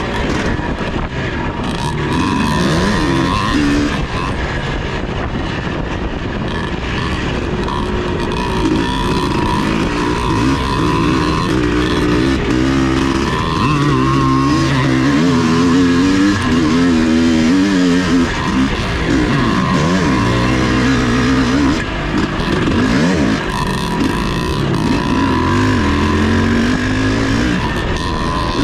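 Vintage off-road racing motorcycle engine revving hard and dropping back again and again, its pitch rising and falling every second or two as the rider works the throttle.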